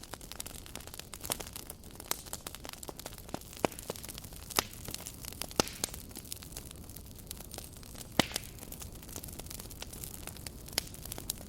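Wood campfire crackling: irregular sharp pops and snaps over a steady low hiss, with a few louder pops scattered through, the loudest about two thirds of the way in.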